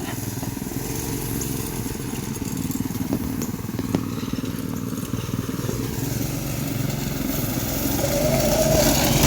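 Small off-road vehicle engine running steadily, then climbing in pitch and getting louder near the end as it revs up.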